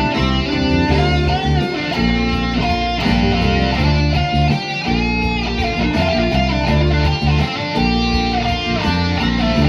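Instrumental guitar music: a melodic lead line with bending notes over a steady bass and rhythm accompaniment.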